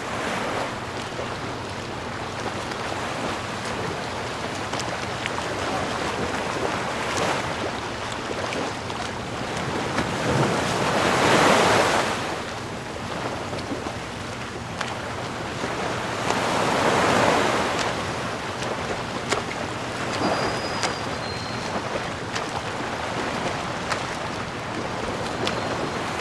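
Sea waves: a continuous wash of surf, with two larger waves swelling up and breaking, one a little before halfway and one about two-thirds of the way in.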